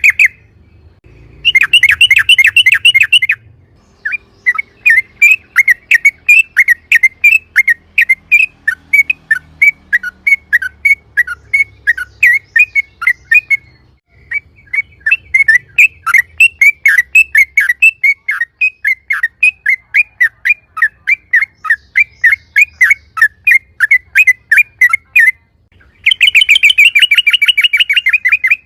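Yellow-vented bulbul (trucukan) singing loudly in its rapid repeated 'ropel' style: quick rattling trills near the start and end, and between them long runs of sharp chirping notes at about four a second, with a short break about halfway.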